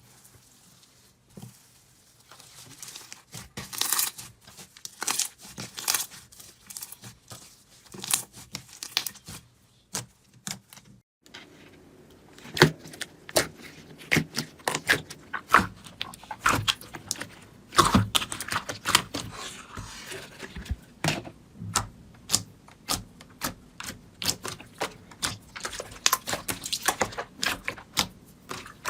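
Slime being handled, giving quick irregular crackling and clicking pops. It starts about two seconds in, pauses briefly near the middle, then runs on more densely.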